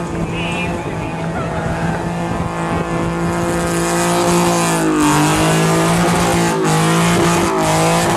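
Car engine held at high revs through a burnout, its tires spinning and squealing against the pavement. The revs dip and come back about halfway through, and briefly drop a couple of times near the end.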